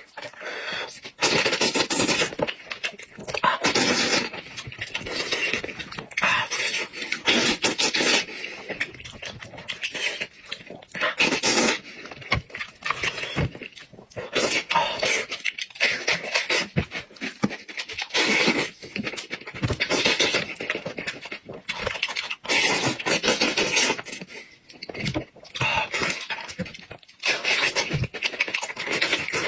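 A person eating goat head meat close to the microphone: irregular chewing, smacking and sucking mouth sounds.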